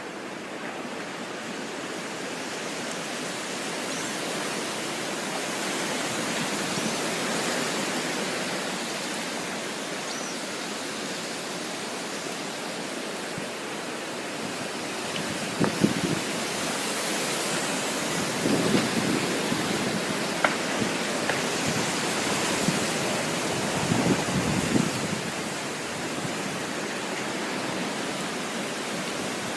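Strong wind blowing, a steady rushing that slowly swells and eases, with a few short thumps about halfway through and again near the end.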